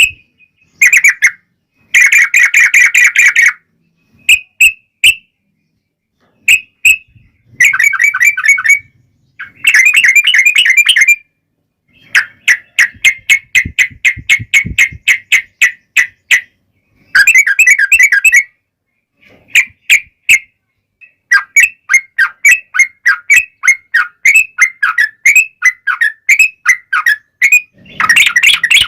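Yellow-vented bulbuls (trucukan) singing in loud bursts of bubbling, chattering phrases separated by short silences, with long runs of rapid repeated notes.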